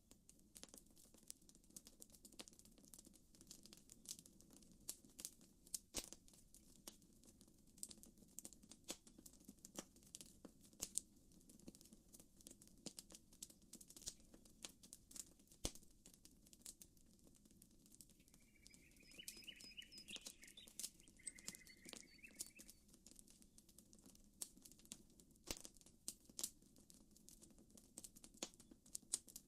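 Campfire crackling quietly, with scattered sharp pops and snaps of burning wood. A short chirping call comes about two-thirds of the way through.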